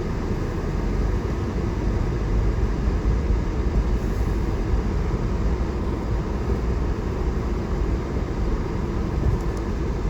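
Steady low rumble of a four-wheel-drive vehicle driving, engine and tyre noise heard from inside the cabin.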